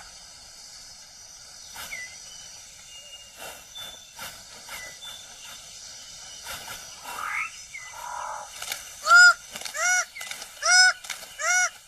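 Rainforest birds calling: scattered faint chirps and whistles, then from about nine seconds in a loud honking call repeated four times, roughly a second apart, each a short arched note with overtones.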